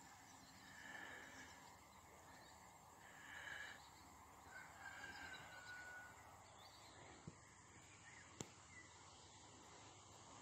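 Near silence by open water, with a few faint distant bird calls in the first half and two faint clicks later on.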